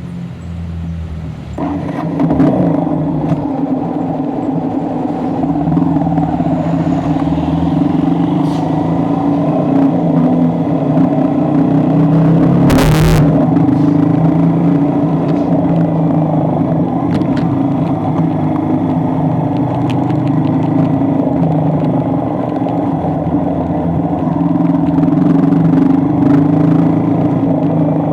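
A vehicle engine running steadily, growing louder about a second and a half in as it picks up. There is a brief burst of noise near the middle.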